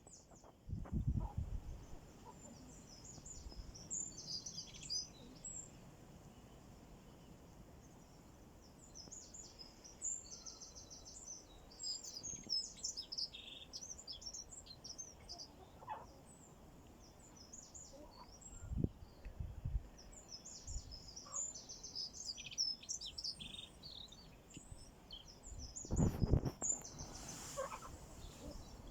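Small wild birds chirping and twittering in many short, high calls throughout. A few low rumbles break in: one about a second in, one near two-thirds through, and the loudest near the end.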